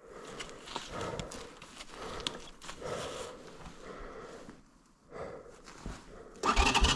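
Uneven rustling and scraping, then about six and a half seconds in a small engine suddenly starts and runs loud with a fast, even beat.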